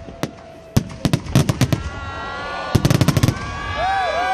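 Fireworks display: sharp bangs, with rapid crackling volleys about a second in and again near three seconds. Whistling fireworks add many wavering tones that rise and fall and grow louder toward the end.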